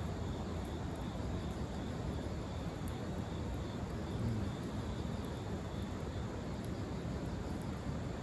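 Wood fire burning in a fire pit stand: a steady low rushing noise with faint scattered crackles.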